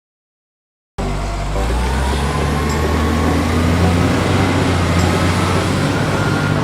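An engine runs steadily with a deep, even drone. It cuts in abruptly about a second in, after a second of silence.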